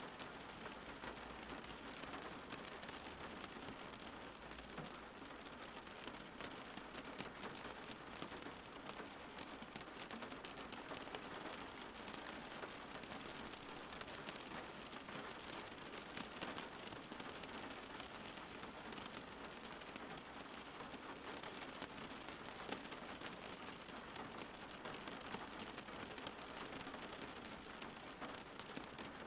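Steady rain falling on a surface, a dense even hiss of many small drop ticks.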